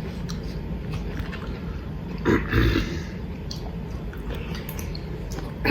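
People chewing food close to the microphone over a steady low hum, with a short louder burst of mouth noise about two and a half seconds in.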